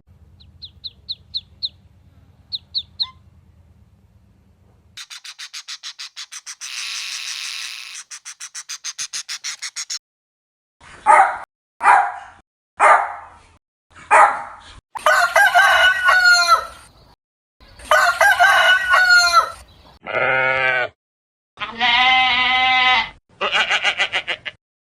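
A string of rooster crows: long pitched calls, the loudest in the second half, after a run of shorter calls. These are preceded by faint high chirps and about five seconds of rapid, even pulsing.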